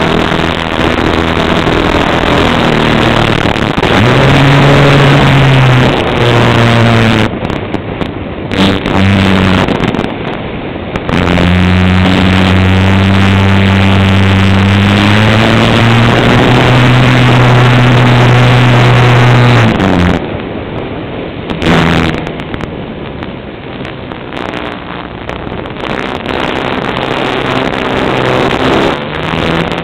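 Cessna light aircraft's piston engine and propeller droning, its pitch shifting up and down several times as power changes. It is loudest and steadiest for several seconds in the middle, then quieter and more uneven in the last third.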